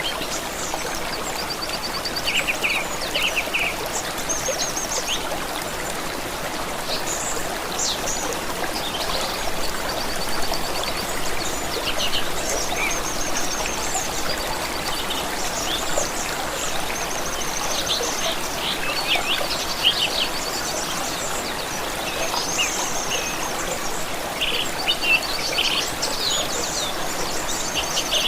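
Running water of a stream, trickling steadily, with several songbirds singing and chirping over it in short trills and repeated notes.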